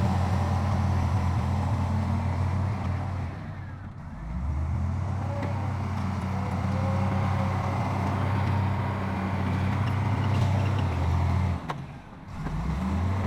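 Diesel engine of heavy earthmoving machinery running with a steady low drone, dipping briefly twice.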